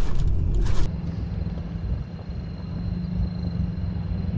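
Strong rear-flank-downdraft wind buffeting the microphone, which cuts off abruptly about a second in, leaving a steady low vehicle hum.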